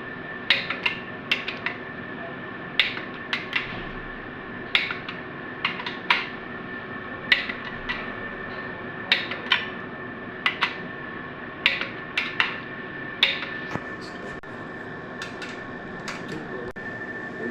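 Metal hand tools and engine parts clinking and knocking in short irregular clusters, as during hand assembly of an LS 5.3 engine. Underneath is a faint steady hum.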